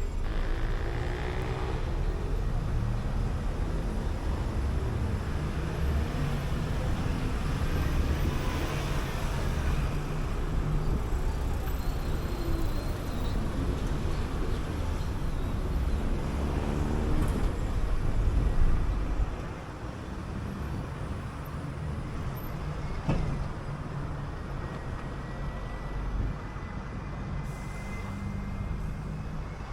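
City bus heard from aboard: heavy engine and road rumble with the engine pitch rising as it pulls away. About two-thirds through, the rumble drops off sharply as the bus slows, leaving a quieter steady running noise.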